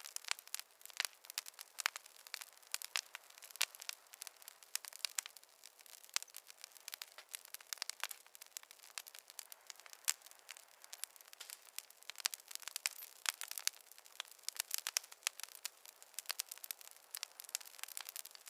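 Wood fire crackling in a fireplace: a steady stream of sharp, irregular pops and snaps over a faint hiss.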